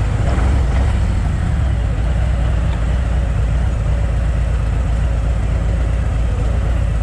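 Harley-Davidson Ultra Limited's V-twin engine running steadily while the motorcycle cruises, with wind and road noise.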